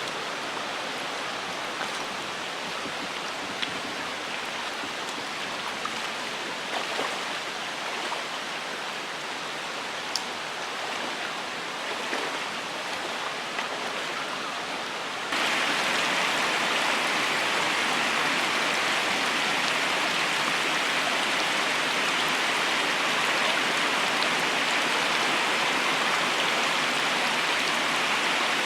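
River water flowing steadily. About halfway through the sound suddenly steps up louder and brighter and stays there. A few faint clicks come in the first half.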